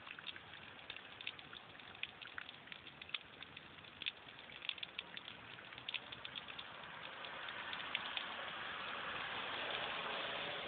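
Rain falling, with many separate drops ticking on a hard surface at first, then thickening into a steady, louder patter from about two-thirds of the way in.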